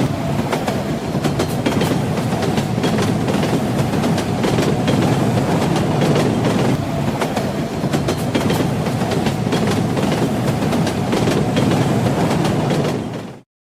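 Railway carriage running along the track: a steady rumble with repeated clicks of the wheels clattering over rail joints. It fades out quickly and stops just before the end.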